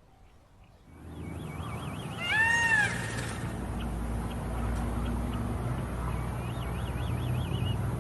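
A single short, high animal call that rises and falls, about two seconds in, with a fast warbling trill heard twice, over a steady low rumble.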